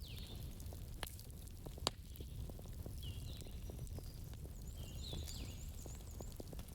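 Campfire crackling: scattered pops and snaps over a low steady rumble, with one sharp pop about two seconds in. High chirping calls, like small birds, come and go over it.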